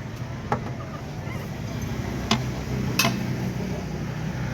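Three sharp metal clinks of tools and parts being handled during suspension work, the last the loudest, over a steady low hum.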